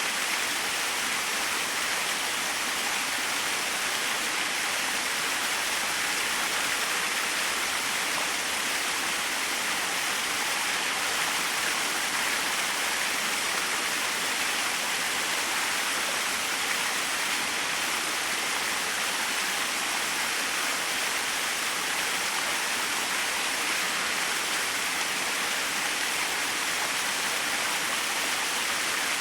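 Small waterfall splashing steadily, an even rushing hiss that stays the same throughout.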